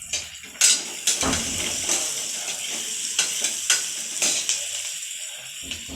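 Onions and spices frying in hot oil in a pressure cooker pot, sizzling steadily while a spoon stirs them, scraping and clinking against the pot several times.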